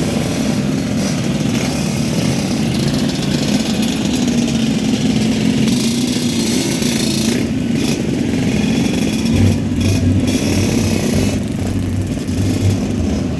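Loud, dense street noise of vehicle engines running, with a wavering low hum. About nine seconds in, a deep bass starts pulsing in short, uneven blocks.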